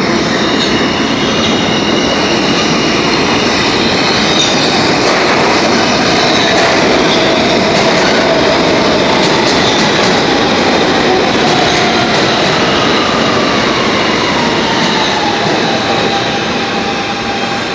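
R160 subway train running along the track, with a steady rush of wheel and motor noise. A whine falls in pitch in the latter part.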